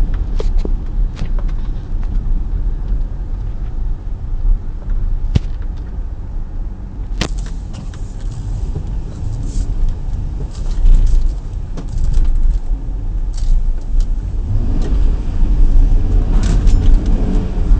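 Chevrolet Tahoe driving through deep drifted snow, heard from inside the cabin: a steady low rumble of engine and tyres with a few sharp knocks, growing louder and rougher near the end.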